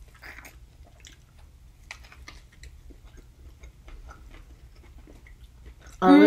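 Faint chewing of burgers: soft, scattered mouth clicks and moist crackles over a low steady hum. Near the end a loud voice with a steady pitch cuts in suddenly.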